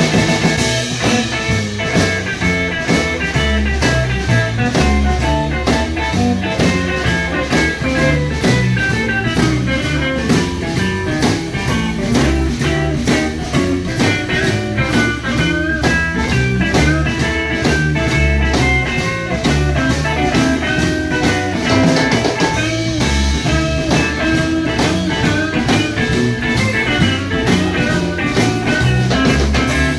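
Live rock-and-roll band playing an instrumental break: a guitar carries the melody over drums and bass with a steady beat.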